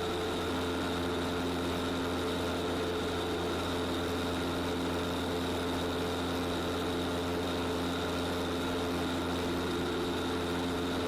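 Piston engine of a STOL CH 750 Super Duty light aircraft running steadily at low power on the ground after landing, its mixture leaned, heard from inside the cockpit as an even drone with fixed tones.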